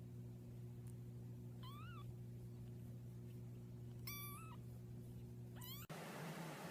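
A cat meowing three short times, one rising and falling, one held flat and one rising, over a steady low hum. Near the end the hum cuts off abruptly to a hissy background.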